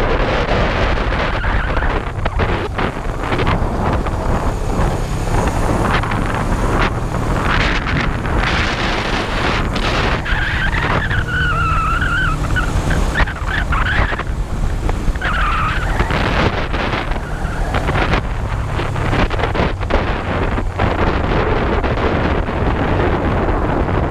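Kawasaki GPz250 Belt Drive's air-cooled parallel-twin engine running steadily as the motorcycle is ridden along the road, with wind rushing over the microphone. A brief high wavering tone sounds about halfway through.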